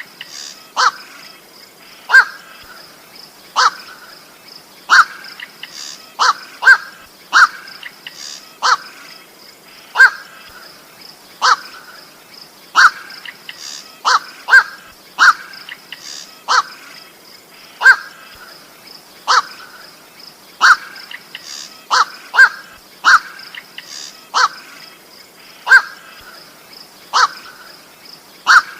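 Koak (goak) bird calling: short, harsh calls, single or in quick pairs, repeated about every second and a half, a sound used for luring birds. A faint steady high tone runs underneath.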